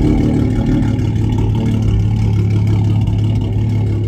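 A car engine running steadily at idle close by, a loud, even low rumble.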